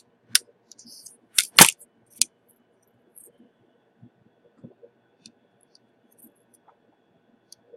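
Sharp clicks and taps of small hard objects being handled on a workbench, four loud ones in the first couple of seconds, then only faint scattered ticks.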